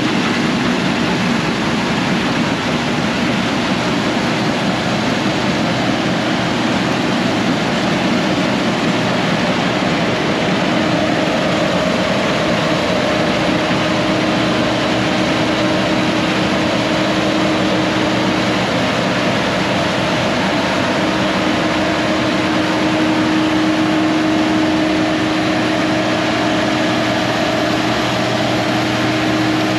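Combine harvester running steadily while cutting wheat: a constant, loud machine noise with a steady droning hum, which grows a little stronger about halfway through.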